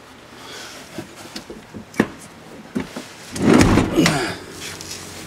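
A few sharp knocks and clicks, then a louder rustling scrape about three and a half seconds in, as someone handles things inside a pickup truck cab.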